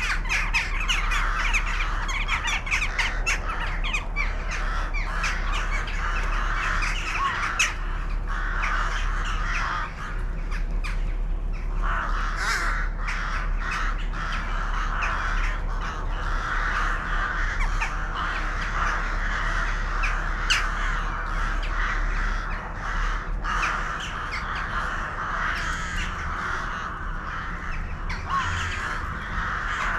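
A large flock of birds calling all at once in a continuous, dense chatter, with many short sharp calls over it.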